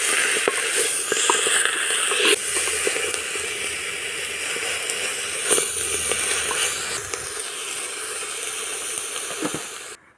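Spinach and whole red chilies sizzling as they fry in an aluminium pressure-cooker pot, with the scrape and click of a spatula stirring them against the metal. The sizzling cuts off suddenly near the end.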